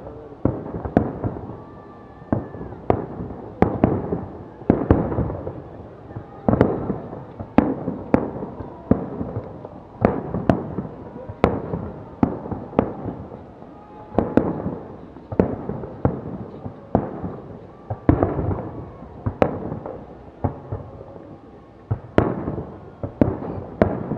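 Fireworks display: a continuous barrage of shells bursting overhead, one or two sharp bangs a second, each trailing off in a rolling echo.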